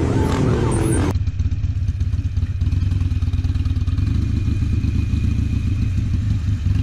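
A wavering pitched sound that breaks off sharply about a second in, followed by a motorcycle engine running steadily: a low rumble with fast-pulsing road noise.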